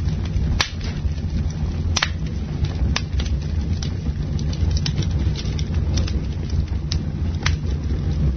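Campfire burning: a steady low rumble with frequent crackles and several sharper pops of burning wood.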